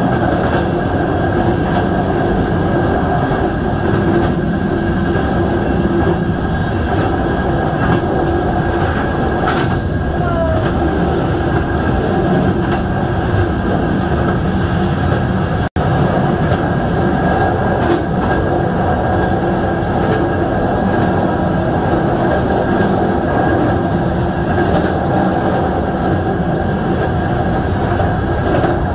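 Passenger train running along the rails: a steady rumble of wheels on track with scattered clicks, briefly cutting out about halfway through.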